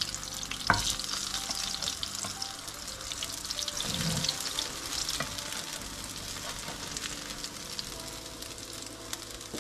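Potato chapli kababs shallow-frying in a little oil in a nonstick frying pan: a steady sizzle with fine crackling. A sharp knock of the spatula against the pan comes about a second in, and a softer bump near the middle.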